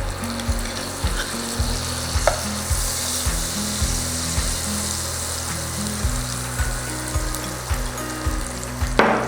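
Butter melting and sizzling in hot oil in a pan, a steady hiss. Background music plays low underneath.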